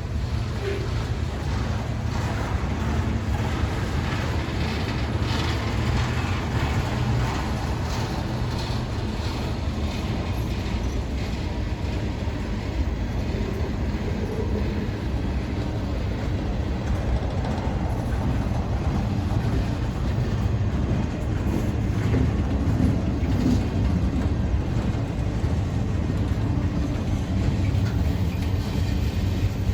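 A CSX mixed freight train rolling past at a grade crossing: a steady, continuous noise of wheels on rails, heaviest in the low end and holding at an even level.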